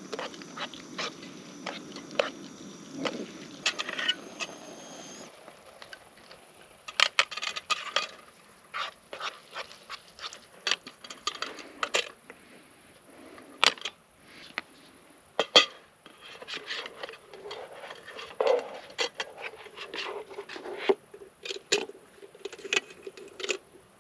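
Scattered clinks and knocks of camp cookware and utensils being handled, with a steady low rushing noise that cuts off about five seconds in.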